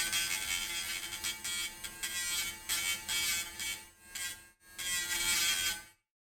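Dremel rotary tool running at high speed, its whine rising and falling in level as it grinds the metal end of a fuse to prep it for soldering. It stops briefly about four and a half seconds in, and cuts off again near the end.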